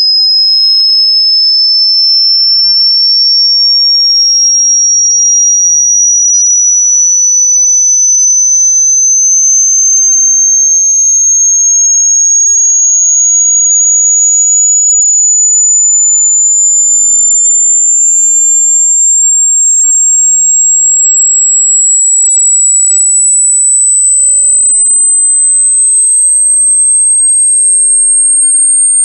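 Loud, piercing, electronically generated pure tone, steady and unbroken, creeping slowly and steadily upward in pitch from high to very high in small steps.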